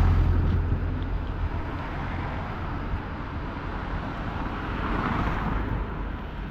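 Street traffic at a tram crossing, with an E-Class tram passing: a low rumble, loudest at the start, fades over the first couple of seconds into steady traffic noise.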